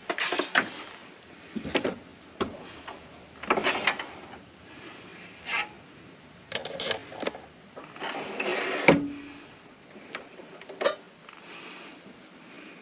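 Irregular clicks, knocks and clatter of metal lathe parts and tools being handled while a pen mandrel (arbor) that has gone out of true is reset, with one sharp louder knock about nine seconds in. A faint steady high tone runs underneath.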